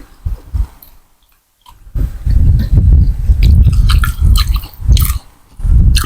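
Loud, close chewing of Thai boat noodle soup with pork, with wet, sticky mouth clicks. The chewing starts in earnest about two seconds in, after a short pause.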